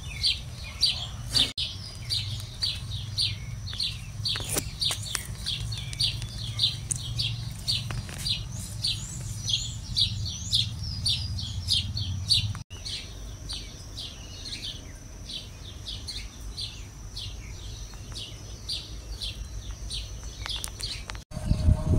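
Small birds chirping: short, high chirps repeated about two to three times a second, with a faint steady high tone behind them. A low rumble underneath stops about halfway through.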